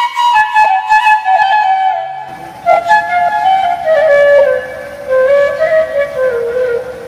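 Background music: a solo flute-like melody that drifts downward in pitch, with a soft low backing coming in about two seconds in.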